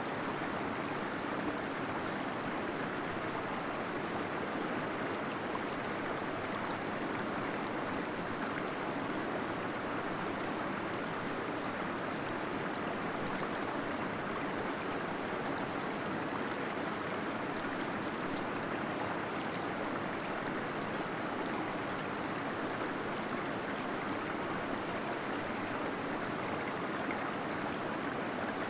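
Waterfall splashing steadily in a cave, a continuous even rush of falling water with faint small drips and splashes.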